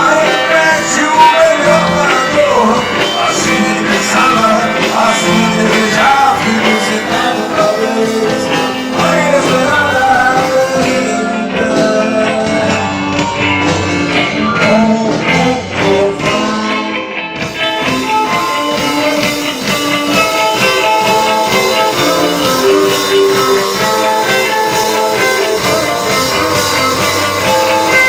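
A rock band playing with vocals and guitar. The singing gives way to an instrumental guitar-led passage about halfway through, with the high cymbal-like sound dropping out briefly in the middle.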